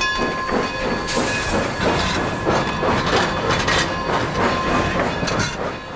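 Narrow-gauge steam train working past, with steam hissing and wheels and cars clattering over the rails.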